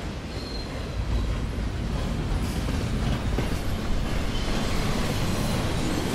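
A train running on the rails: a steady low rumble that grows a little louder in the first second or so.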